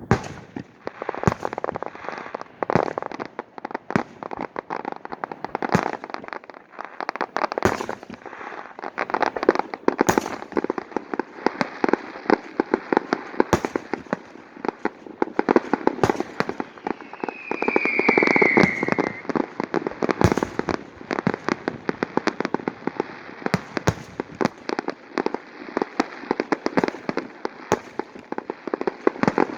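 Aerial fireworks going off in rapid succession: dense crackling with many sharp bangs, and a short falling whistle a little past halfway.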